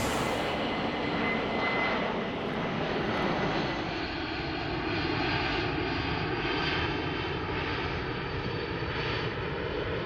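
C-17 Globemaster III transport aircraft in flight, its engines running with a steady, even noise.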